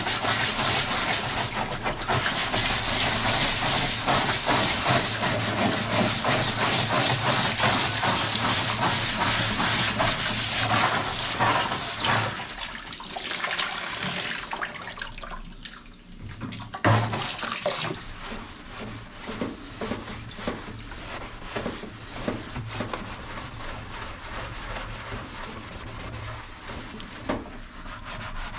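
Toothbrush scrubbing the plastic parts of a top-load washing machine: fast, steady scratchy strokes for about twelve seconds, then slower, quieter, irregular strokes with one sharp knock partway through.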